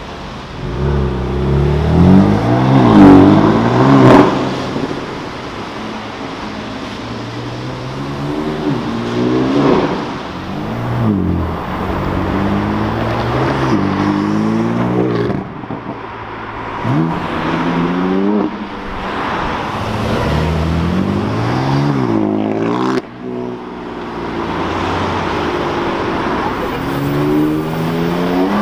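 BMW M3 and M4 twin-turbo straight-six engines accelerating away one after another, each rising in pitch and dropping back at the gear changes. Loudest about three seconds in.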